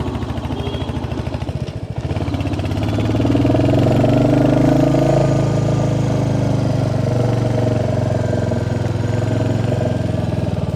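Royal Enfield Hunter 350's single-cylinder engine running while riding. About two seconds in it gets louder and its pitch rises as the bike accelerates, then it settles into a steady run.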